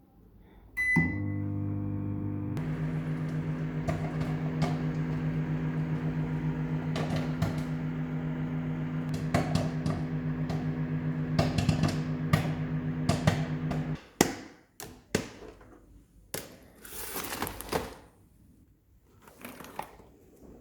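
Microwave oven beeps and starts, running with a steady hum while popcorn kernels pop inside, the pops growing more frequent toward the end of the run. The hum cuts off about 14 seconds in, followed by a few knocks and a short rustle.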